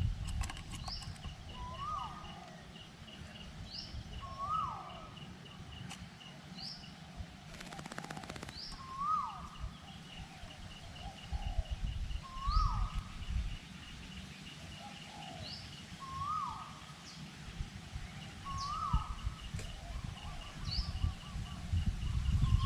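Birds calling in forest: a short hooked call repeated about every two seconds, with quick rising notes and a fast ticking series higher up, over gusty wind rumble on the microphone.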